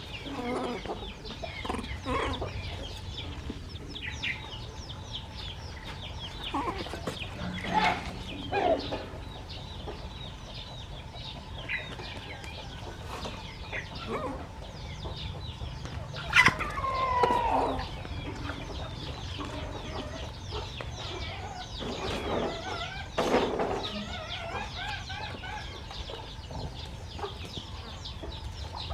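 Chickens clucking, with many short, high calls throughout and a longer call that falls in pitch a little past halfway.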